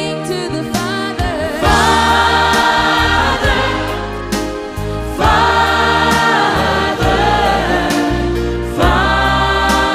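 Gospel song: voices sing long held notes over a sustained bass accompaniment.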